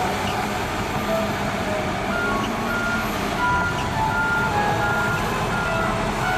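Heavy diesel machinery running steadily, with a truck's reversing alarm beeping over it about twice a second, its beeps stepping between several pitches like a short tune.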